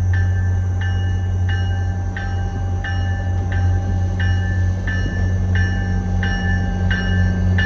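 Railroad grade-crossing bell ringing over and over, about one and a half strokes a second, over the steady low drone of a train.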